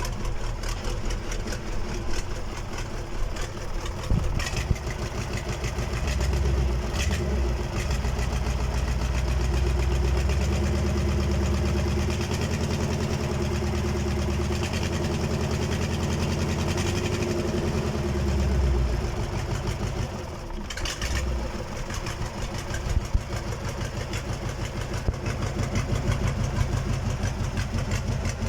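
Freshly overhauled KamAZ diesel engine running on its first start after the rebuild. It idles, is brought up to higher revs about six seconds in, holds there, and drops back to idle about twenty seconds in.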